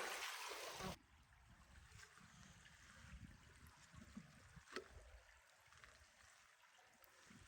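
Rushing river water that cuts off abruptly about a second in, leaving faint outdoor ambience with a low rumble and a few soft ticks.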